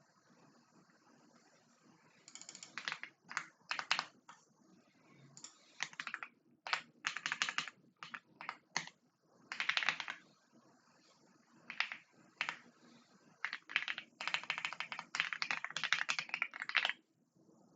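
Typing on a computer keyboard: bursts of rapid keystrokes separated by short pauses.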